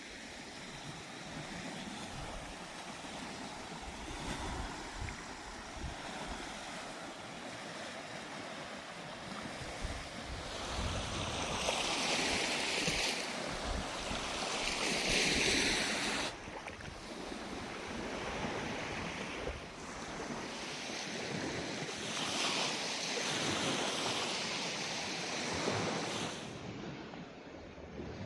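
Lake Superior waves washing onto the shore with wind buffeting the microphone. The surf swells in two long surges, each cut off abruptly, about 16 and 27 seconds in.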